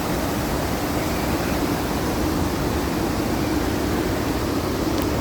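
Steady rushing of churning water from a river-rapids ride, an even roar without a break.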